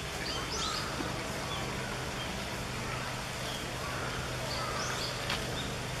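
Outdoor ambience of scattered short, high bird chirps a few times over a steady low background hum.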